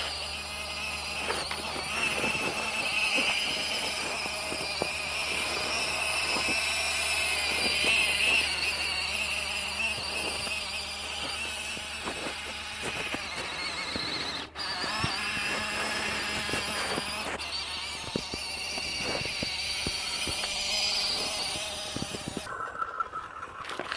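Small electric RC truck driving, its motor and gears whining high and shifting in pitch as the throttle changes, with crackling and clicking from the tyres or tracks over rough ground. The motor whine cuts off suddenly near the end.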